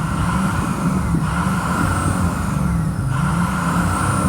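Ford E-450's 6.0-litre diesel engine running and being revved, its pitch rising and falling several times. The engine is running smoothly.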